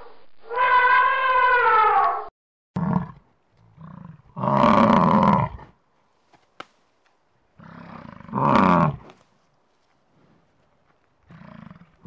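African elephant trumpeting, one long call falling in pitch at its end. Then Cape buffalo bellowing in rough calls: a short one, then three longer ones a few seconds apart, the middle two loudest.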